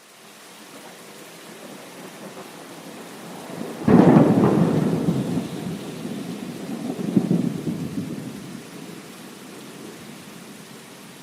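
Steady rain with a thunderclap about four seconds in that rumbles on, swells again a few seconds later, then fades back into the rain.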